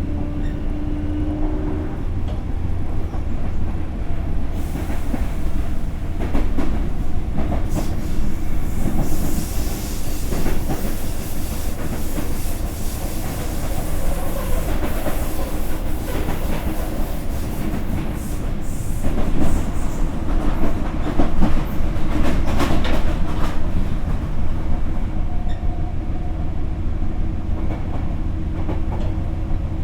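Sagami Railway 8000 series electric train with Hitachi GTO-VVVF drive, heard from inside the car while it runs at speed: a steady low rumble with wheels clicking over rail joints. A high rushing hiss swells in a few seconds in and dies away by the middle, and a faint steady motor tone comes back near the end.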